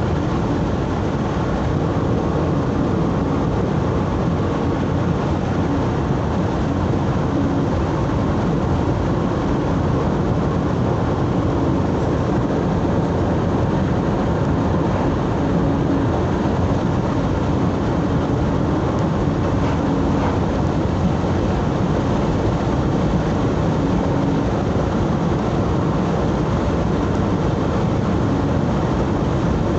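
Vehicle driving along a road: steady engine and tyre noise with a low hum that does not change.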